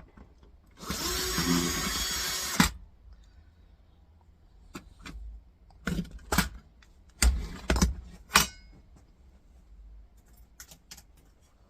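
A power drill runs steadily for about two seconds near the start, then stops. Several sharp clicks and knocks follow a few seconds later.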